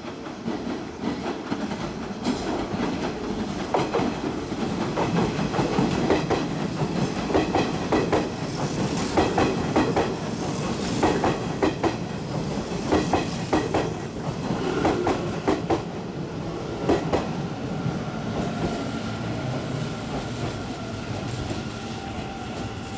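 Hanshin 1000 series electric train arriving at a station, its wheels clattering over rail joints and points as the cars run past. In the second half a steady high whine comes in as the train slows.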